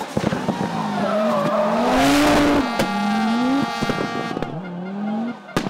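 Rally car engine revving hard, its pitch rising and falling several times as the driver works the throttle and gears, with a burst of tyre and surface noise about two seconds in and a sharp bang near the end.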